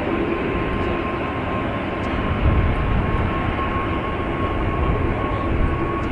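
Jet airliner's engines running: a steady rumble with a thin high whine that creeps slightly upward in pitch.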